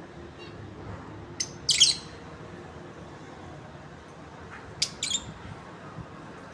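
A pair of pet lovebirds giving short, sharp, high chirps in two quick pairs: the louder pair about one and a half to two seconds in, the other about five seconds in.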